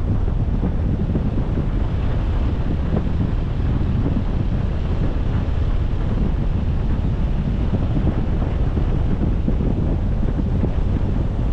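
Wind buffeting the microphone of a camera on a moving car, a steady low rumble.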